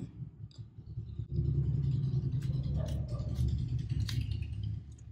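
Close-miked chewing of a mouthful of paneer tikka and wrap with the mouth closed. It is a low, muffled rumble with a few soft clicks, and it fades near the end.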